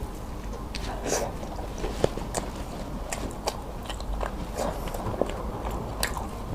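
A person biting into a mooncake and chewing it, with scattered small clicks and smacks of the mouth.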